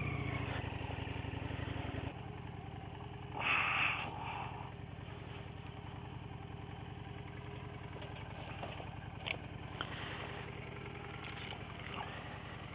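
Motorcycle engine running steadily at low revs, a little louder for the first couple of seconds, with a brief rush of noise about three and a half seconds in.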